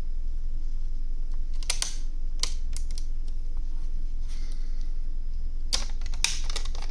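Scattered light clicks and taps of hands and a small screwdriver on a laptop's plastic bottom chassis as the last chassis screw goes in. A few come about two seconds in and a denser cluster near the end, over a steady low hum.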